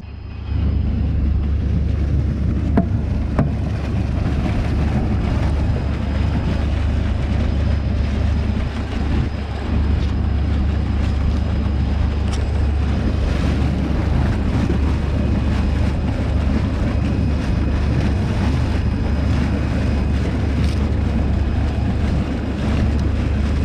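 An engine running steadily with a deep, even rumble, driving a batch to mix; it comes in loud about half a second in.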